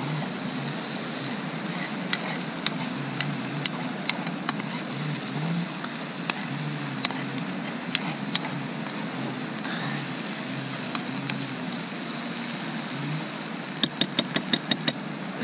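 Zazharka, a vegetable sauté for borscht, sizzling steadily as it fries in a pan over a campfire, with scattered sharp clicks and a quick run of clicks near the end.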